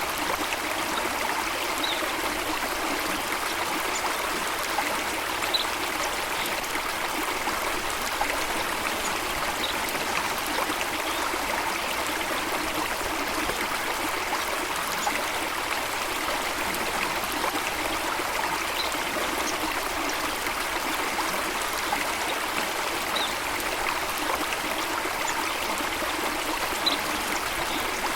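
Running water of a small stream, a steady babbling and trickling flow.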